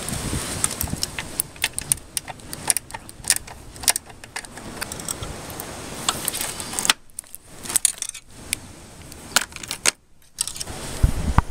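Metal hand tools and parts clinking and clicking against metal, in irregular sharp clicks with a heavier knock near the end.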